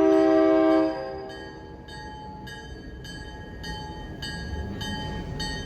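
A diesel locomotive's multi-tone air horn sounds loud and steady, then cuts off about a second in. A grade-crossing bell rings a little under twice a second, and the low rumble of the approaching train grows louder toward the end.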